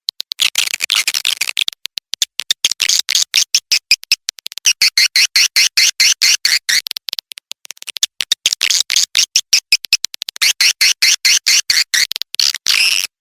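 Recorded swiftlet call track playing: rapid high-pitched twittering chirps in phrases of one to two seconds, with short breaks between them. It is the lure call that swiftlet farmers play to draw swiftlets into a nesting house.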